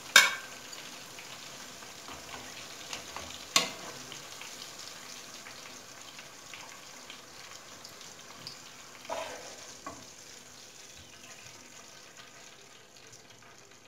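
Eggplant slices frying in a pan of hot oil, a steady sizzle that slowly fades as the gas under the pan has been turned off. Metal tongs clink sharply twice, near the start and a few seconds in, with softer clatter about nine seconds in as the slices are lifted out.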